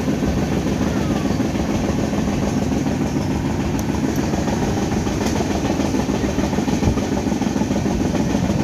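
Moving passenger train heard from inside the coach: a steady, even running noise of the wheels on the rails.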